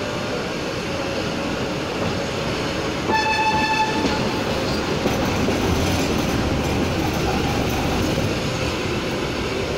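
Nilgiri Mountain Railway metre-gauge passenger train running, heard from inside a coach at the open window, a steady rumble of wheels on track. About three seconds in, the locomotive gives a single steady toot lasting about a second.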